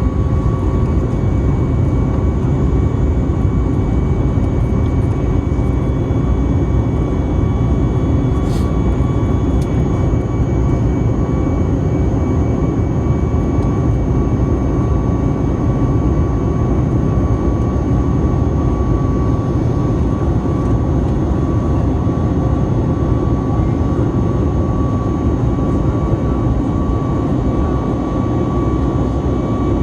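Steady cabin noise inside a Boeing 737-9 MAX: the roar of its CFM LEAP-1B turbofans and airflow, with a steady whine on top, unchanging throughout.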